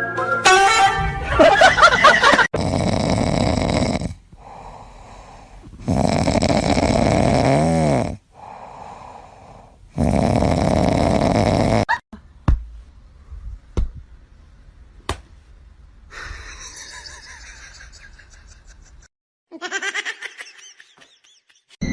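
A pet snoring loudly, three long rasping breaths about four seconds apart. These are followed by a few sharp clicks and, near the end, a short pitched call.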